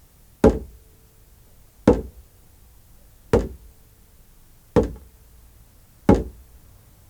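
A slow, even beat of low knocks, about one every second and a half, five in all, each followed by a brief ring.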